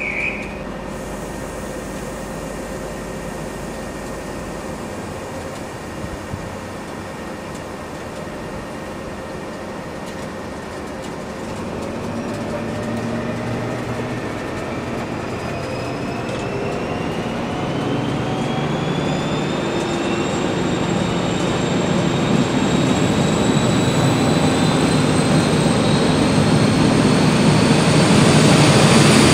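High Speed Train standing at the platform with its diesel engines running, then pulling away: several whines rise steadily in pitch from about halfway through, and the engine noise grows louder toward the end.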